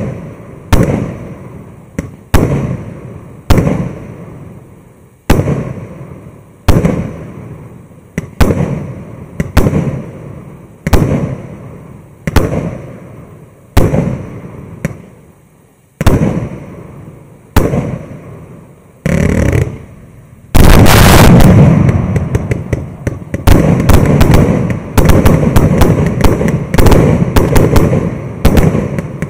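A 600-shot, 1.2-inch firework battery firing: single bangs with short crackling tails come a little faster than one a second. About twenty seconds in, it switches to a dense rapid-fire barrage of overlapping bangs.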